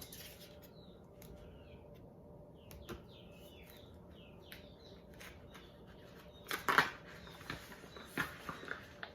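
A small bird chirping faintly, a run of short falling chirps. About two-thirds in come a few loud, sharp rustling clicks, then smaller ones near the end.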